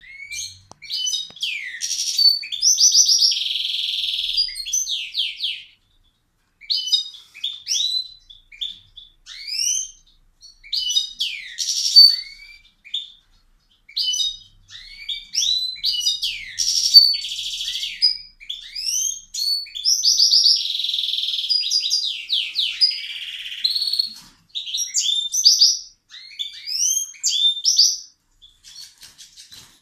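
Caged pet songbird singing very loud: long phrases of rapid high chirps, whistled glides and buzzy trills, broken by short pauses of a second or so.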